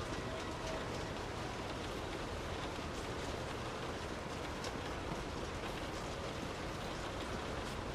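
Steady rain falling, a constant hiss with the patter of individual drops striking a surface.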